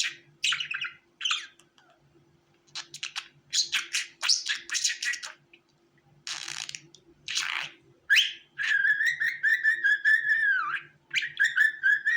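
Budgerigars chirping and squawking in short, rapid calls, then a long warbling whistle starting about eight seconds in that breaks off briefly and resumes near the end.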